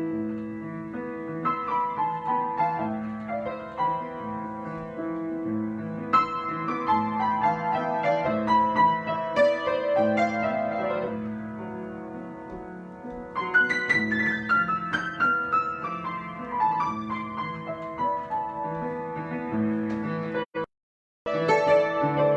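Improvised solo piano: a repeated low-note figure under runs of higher notes that fall in pitch several times. Near the end the sound cuts out completely for about half a second.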